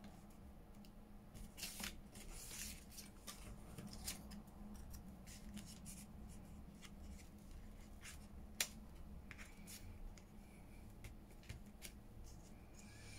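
Faint rustling and light tapping of paper and card being handled and sorted, with one sharper tap about two-thirds of the way through, over a low steady room hum.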